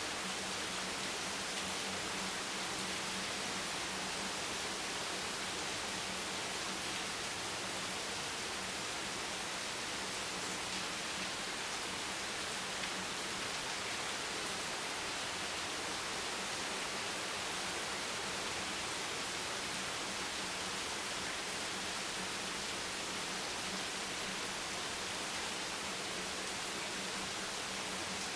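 Steady, even hiss of rain falling without a break, with a faint low hum underneath.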